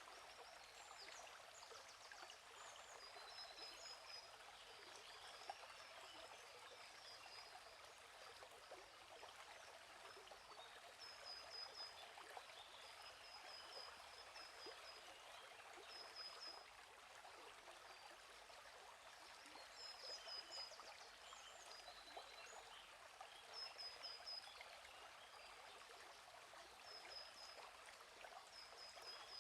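Gently flowing stream, a faint steady rush of water, with small birds chirping in short, high, repeated phrases every few seconds.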